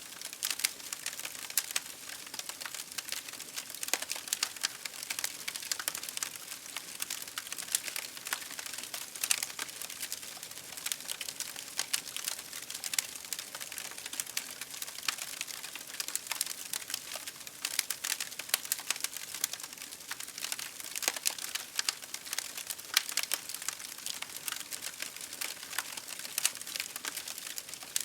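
Campfire crackling: irregular sharp pops and snaps, several a second, over a steady hiss.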